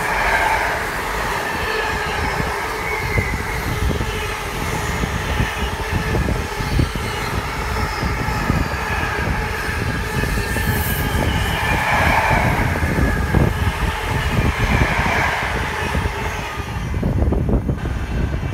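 Container wagons of a freight train rolling past at speed: a steady rumble of wheels on rail, full of short knocks and clatter. A wavering squeal rises and falls a few times, and the sound thins near the end as the last wagons go by.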